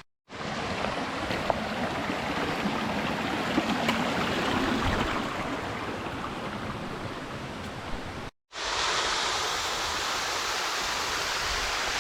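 Mountain stream water running over rocks, a steady rush. It breaks off twice with brief cuts, near the start and about eight seconds in, and after the second cut the water sounds brighter and more hissy.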